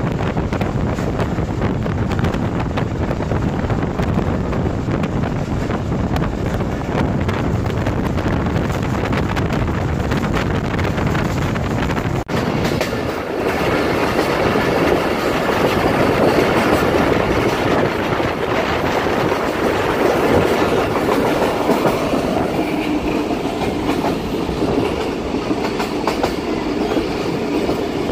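Pakistan Railways passenger express train running at speed, heard from aboard: a steady rumble and clatter of the coaches' wheels on the rails. There is a brief dip about twelve seconds in, and after it the running noise sits higher and rises a little.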